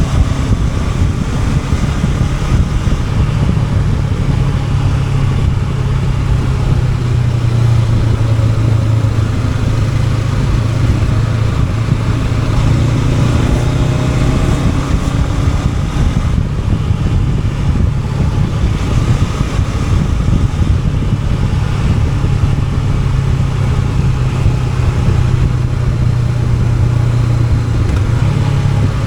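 Honda NX500's parallel-twin engine running under way at a fairly steady speed, with a steady rush of wind and road noise over it.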